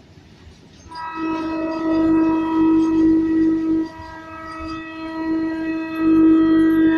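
Indian Railways locomotive horn sounding a long, steady blast from about a second in, easing off near four seconds and swelling again toward the end.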